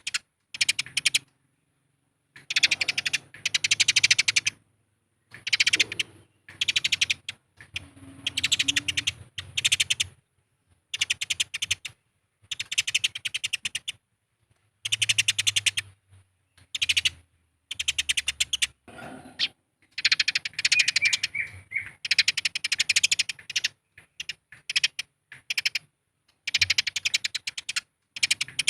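Eurasian tree sparrows' fighting chatter: rapid, harsh strings of chirps in bursts of about a second, broken by short silent gaps.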